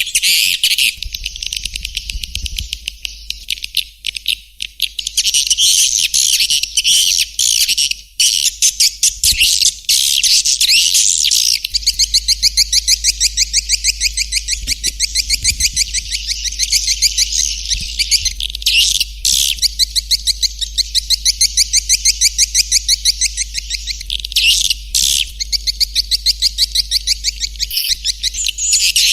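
Swiftlet lure call recording ('suara panggil') of the kind played in swiftlet nest houses to attract swiftlets. High-pitched swiftlet chirps repeat rapidly, in stretches of about five a second, over a faint low hum.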